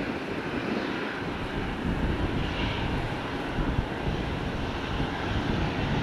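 Jet airliner engines running, a steady, even noise without distinct events, with wind on the microphone.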